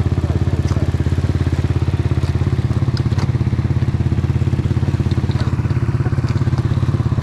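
Enduro motorcycle engine idling steadily, a fast even putter with no revving, with a few faint ticks over it.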